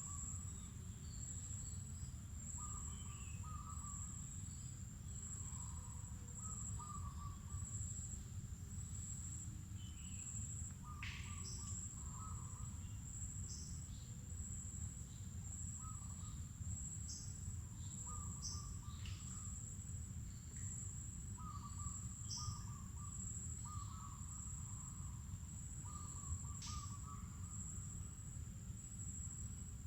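Mangrove forest ambience: a continuous high-pitched insect drone, with short bird calls repeating every couple of seconds, scattered high chirps and a couple of quick falling whistles, over a steady low rumble.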